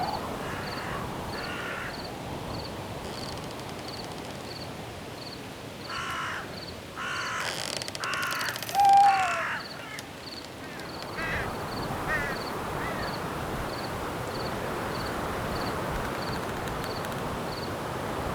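Night forest ambience: a steady rustle of wind in leaves, with a cricket chirping at an even pace. About six seconds in, a crow caws harshly four or five times. A short whistled note falling in pitch, the loudest sound, comes near the end of the cawing, and a few faint bird chirps follow.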